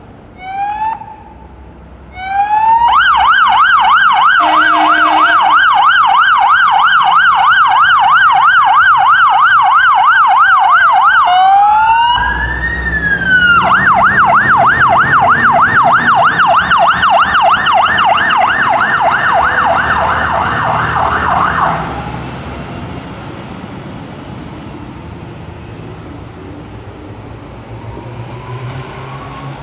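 Fire engine siren: a short chirp, then a loud fast yelp sweeping rapidly up and down, which drops briefly into a slower wail about halfway and returns to the yelp before cutting off. The truck's engine and road noise carry on after the siren stops.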